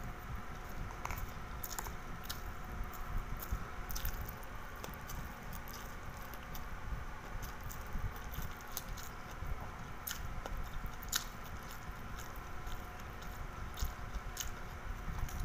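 Close-up chewing and biting of bacon, kimchi and white rice, with irregular wet mouth clicks and squishes over a steady low hum.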